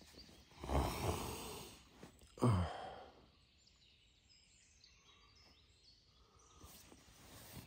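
A sleeping person snoring twice, low and throaty, the second snore falling in pitch.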